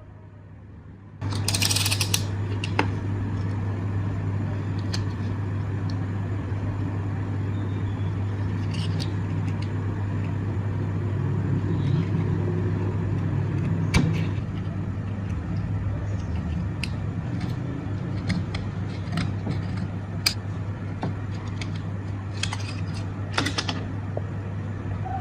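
A machine switches on about a second in and runs steadily with a low hum, with scattered small clicks and brief scraping noises over it.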